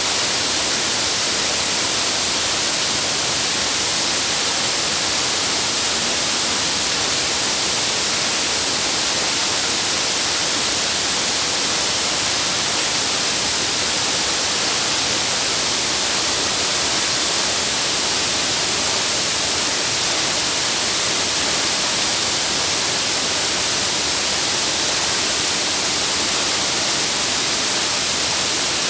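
Waterfall rushing: a loud, steady hiss of falling water with no change throughout.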